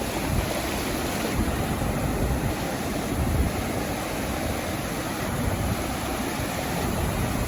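Sea surf washing steadily onto a beach, with a low rumble of wind on the microphone.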